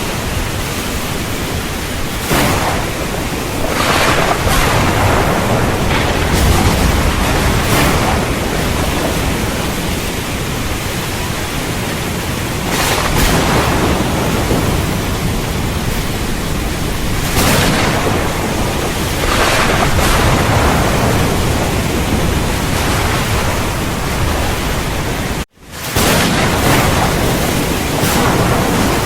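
Heavy rain hissing steadily, with low thunder rumbling underneath and the downpour swelling several times. About 25 seconds in the sound cuts out for a split second and comes straight back.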